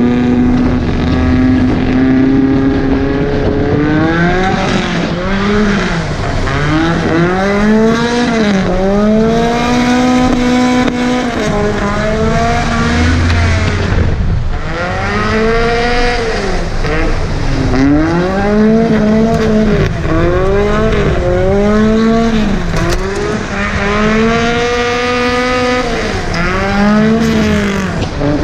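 Volvo 740 drift car's engine revving hard, rising and falling over and over as the car is thrown into drifts on a dirt road. It holds steady revs for the first few seconds, then swings up and down every second or two.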